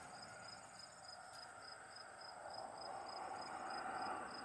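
Faint cricket chirping, a short high pulse repeating about three times a second, with a soft noise that swells in the second half.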